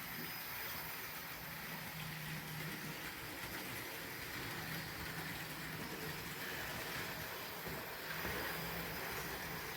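Trix HO-scale model locomotive running on its track: a steady rolling whirr of the small motor and wheels, with a low hum that fades in and out.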